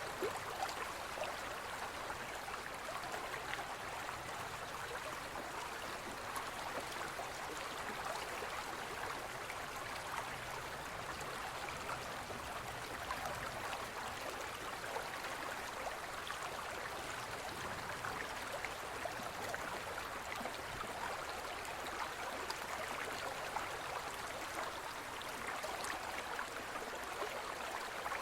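A shallow forest stream running steadily over stones, an even splashing and gurgling babble.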